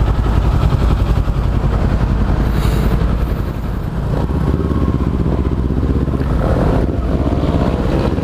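Kawasaki Z400's parallel-twin engine running as the motorcycle is ridden, a steady low drone with the engine pitch rising from about six and a half seconds in.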